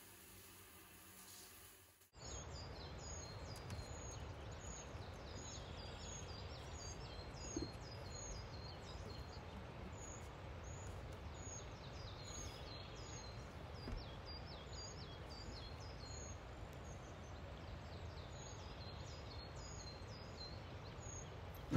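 Outdoor ambience: a bird calls over and over with short, high, falling chirps, in bouts of one or two a second, over a steady low background noise. It starts after a faint steady hiss in the first two seconds.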